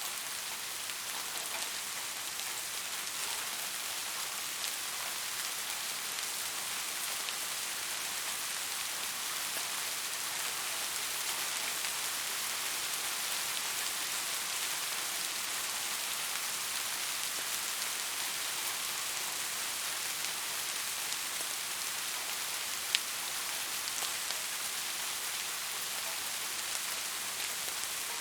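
Steady rain falling and pattering on surfaces, an even hiss with one sharper drop tick late on.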